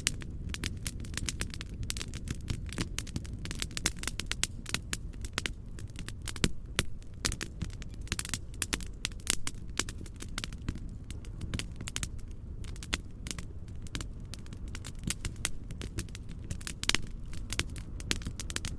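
Fireplace crackling: dense, irregular pops and snaps over a steady low noise.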